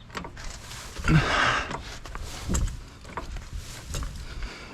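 Floor jack being pumped by its handle to lift the car: clicking and knocking from the jack, with two stronger strokes, the first about a second in and the second about a second and a half later.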